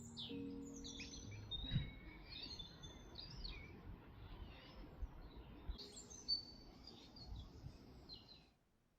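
Several small birds chirping and warbling over a low, steady outdoor background, with a couple of soft thumps; it cuts off abruptly near the end.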